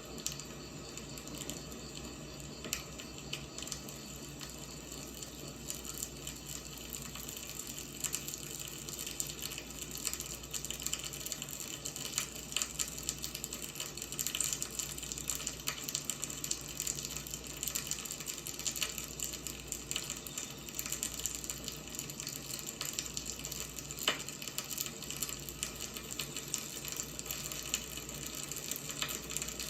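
Wood fire burning, with a steady hiss and many small irregular crackles and pops.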